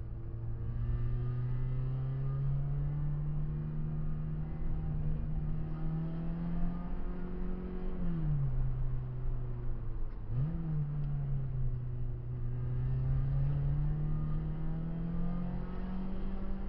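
Renault Clio 16V's four-cylinder engine heard from inside the cabin, pulling steadily up through the revs under load. About eight seconds in the revs drop sharply, dip and jump back up, as with a lift and gear change, then the engine pulls up through the revs again.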